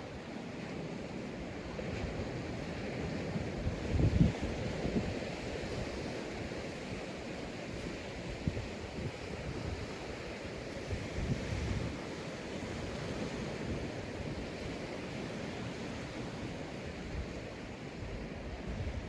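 Sea waves washing onto a sandy beach in a steady surf hiss, with wind buffeting the microphone in low gusts, the strongest about four seconds in.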